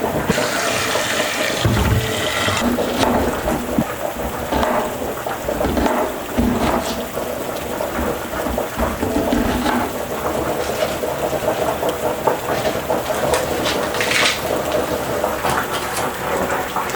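Steady rain falling, with a brief rush of water lasting about two seconds near the start, and scattered small knocks.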